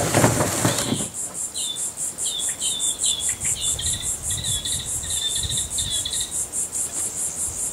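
Insects trilling in a steady high pulse, about five pulses a second, with a bird giving a quick run of short chirps through the middle. A brief rustling noise comes first, the loudest sound here.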